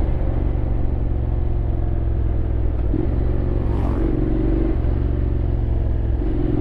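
Honda X-ADV 750's parallel-twin engine running at a steady cruise, with wind and road noise. The engine note shifts slightly about three and four seconds in, and again near the end.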